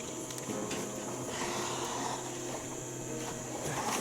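Electric trolling motor running with a steady hum and whine, over a faint haze of water and background noise.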